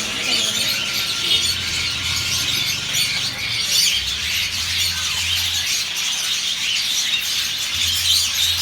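Many caged small birds chirping and chattering at once, a dense unbroken twittering, with a low hum that comes and goes underneath.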